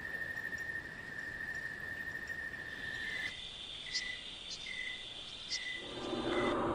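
Natural outdoor ambience: a steady high trill, then after a change about halfway, short high chirps repeated about every three-quarters of a second.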